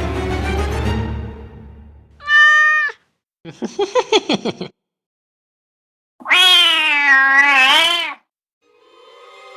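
Cat meows: a short meow, then a quick stuttering call, then a long, wavering meow about six seconds in. Background music fades out at the start and comes back in near the end.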